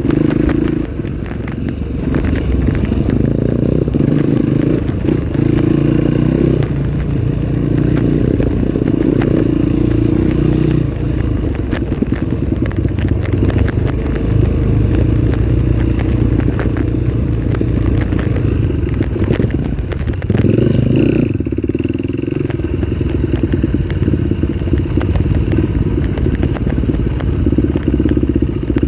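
Dirt-bike engine running under riding load, its note rising and falling with the throttle, with a steady clatter of rattles and knocks from the bike over rough ground. The engine revs up sharply about two-thirds of the way in.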